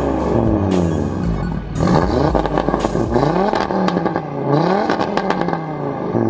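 Audi coupe's engine revved several times through its exhaust, the pitch climbing with each blip and sliding back down as the revs fall. Sharp crackles and pops come from the exhaust as the revs drop off.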